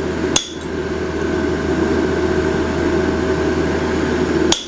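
Two sharp hammer strikes on steel, about four seconds apart, each with a short metallic ring, as the veins are marked into a hot forged leaf. A steady rushing roar from the running forge continues underneath.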